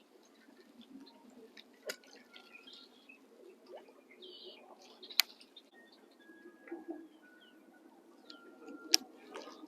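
Birds chirping and calling, with short twittering notes and a few thin whistled tones, and three sharp clicks, the loudest sounds, spaced a few seconds apart.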